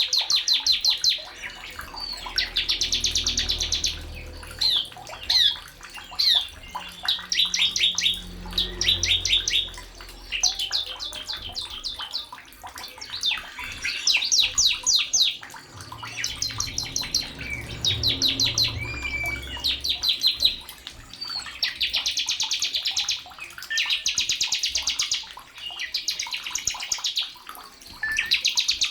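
A songbird known in Indonesia as the sogon singing clear, rapid trills: fast runs of evenly repeated high notes in bursts of one to two seconds, over and over with short pauses.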